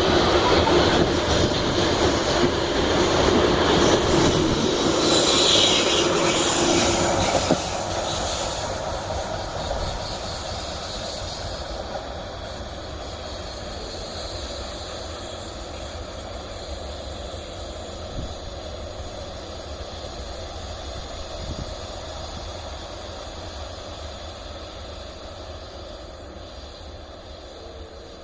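Iron-ore freight train wagons rolling past on the rails, with steel wheels squealing high and a steady tone over the rumble. About seven seconds in the sound drops sharply, then the rolling noise slowly dies away.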